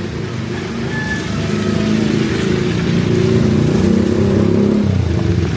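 A motor vehicle's engine running close by, getting louder over the first few seconds, with a change in its low engine note near the end.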